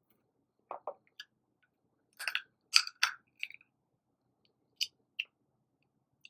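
Eating snow crab legs: short, sharp cracks and crunches of shell and chewing. A pair of cracks comes about a second in, the loudest cluster falls around two to three seconds in, and single cracks follow near the end.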